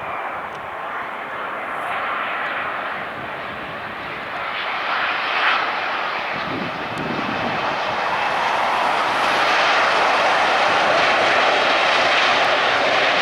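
Airliner's engine noise, a broad rushing sound that grows steadily louder and is loudest in the last few seconds.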